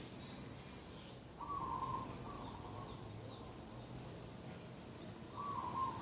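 Dove cooing: two short, tonal coo phrases about four seconds apart, each trailing off into softer notes, with faint chirps of other birds in the background.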